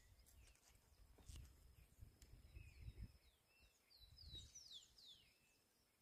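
Near silence with faint bird calls: several short high whistles, each sliding down in pitch, mostly in the second half, over a thin steady high tone. A few soft low thumps are also heard.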